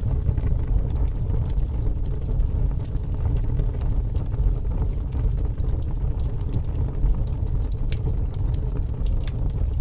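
Fire burning with a steady low rumble and many scattered, irregular crackles and pops.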